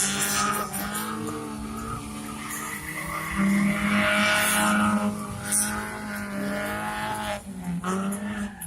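Engine held at high revs, with tyres squealing and skidding on the pavement. The pitch sags briefly near the end.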